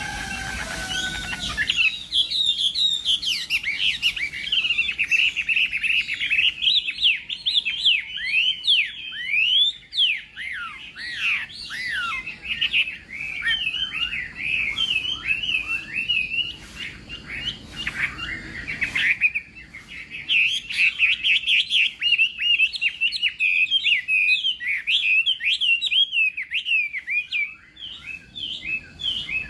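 Chinese hwamei singing a long, fast run of varied whistled phrases, with a short pause about two-thirds of the way through.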